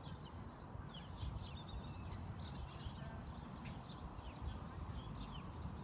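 Small birds chirping: many short, quick downward chirps, several a second, over a steady low outdoor rumble.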